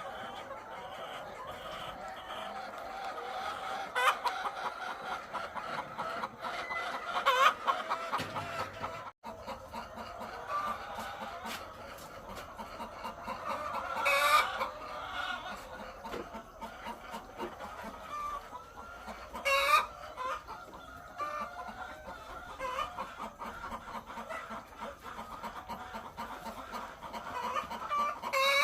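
A large flock of egg-laying hens clucking nonstop, many calls overlapping, with a few louder squawks standing out.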